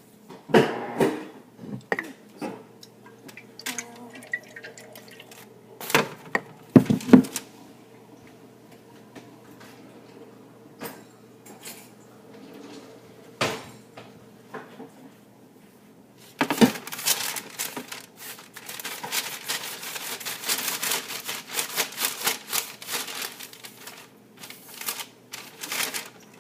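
Kitchen handling sounds: scattered knocks and clatter of utensils and dishes, then from about sixteen seconds in a dense run of rapid clicking and tapping.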